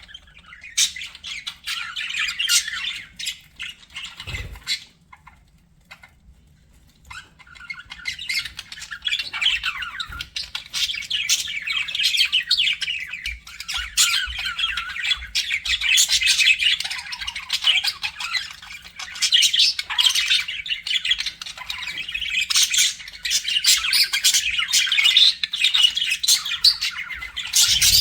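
Budgerigars chattering, with a stream of quick chirps, warbles and squawks. The chatter pauses briefly about five seconds in, then resumes thicker and keeps going.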